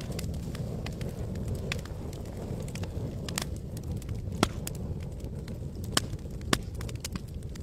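Campfire burning, with irregular sharp crackles and pops of wood over a steady low rumble; the loudest pops come at about the middle and twice near the end.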